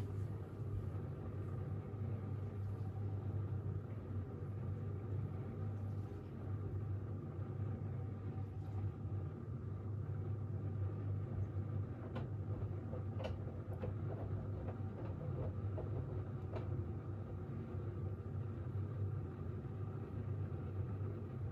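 Siemens iQ700 WG56B2090 front-loading washing machine running, a steady low hum with a few faint ticks about twelve to seventeen seconds in.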